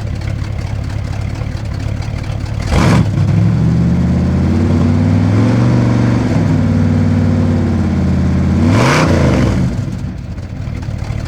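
Jensen Interceptor's 7.2-litre V8 through a straight-through stainless exhaust with no silencers, idling and then revved sharply about three seconds in. It is held at raised revs for around six seconds, blipped again, and drops back to idle near the end.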